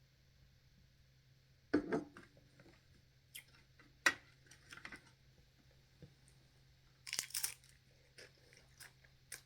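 A person eating crunchy food close to the microphone: scattered bites and crunches with chewing between them. The loudest come about two seconds in, about four seconds in, and in a quick cluster near seven seconds.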